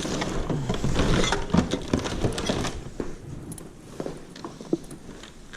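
Hard objects being rummaged through and handled: a busy run of clattering knocks and clinks for the first three seconds or so, then a few scattered clicks.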